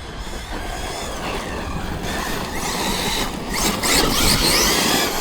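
Electric 4S RC monster truck being driven over dirt: its motor whine rises and falls with the throttle over the noise of the tyres, getting louder about four seconds in.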